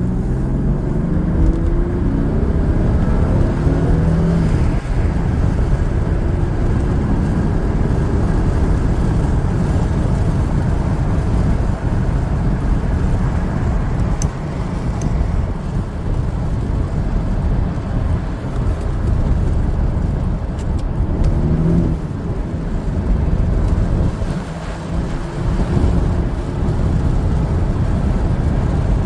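Lexus SC300's 2JZ inline-six engine pulling the car under way, its pitch rising through the revs several times, with steady road and wind noise underneath.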